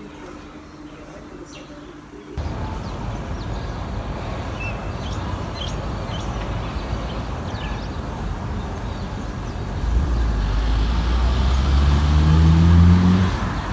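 Road traffic noise that starts suddenly after a quieter first two seconds. About ten seconds in, a nearby vehicle's engine rises in pitch and grows louder as it speeds up, then falls away near the end.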